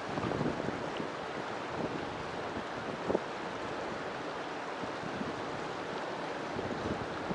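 River water flowing: a steady rushing with a few brief louder gurgles, one near the start and one about three seconds in.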